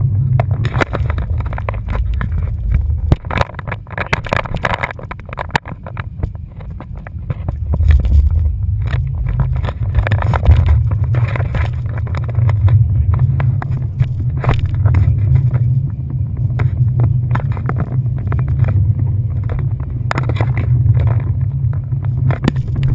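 Speedboat under way: a steady low rumble of engine and wind, broken by repeated sharp knocks.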